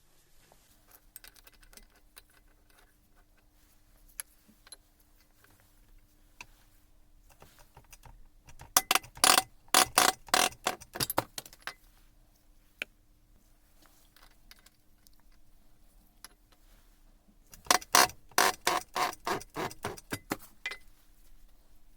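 Two bursts of rapid metallic clicking and rattling, each about three seconds long and dying away, with a few isolated clicks between: metal parts or tools being handled and knocked together during work on a Hilti TE 80 breaker.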